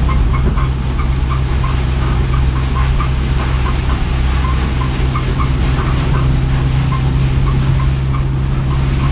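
Race car engine heard from inside the stripped cockpit, running at a steady, unchanging pace with no revving, as the car cruises slowly under the pace car. A faint ticking repeats a few times a second above the engine.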